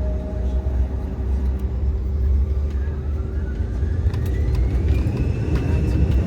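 Airliner jet engines running with a deep steady rumble and a whine that rises in pitch from about three seconds in: the engines spooling up toward takeoff thrust.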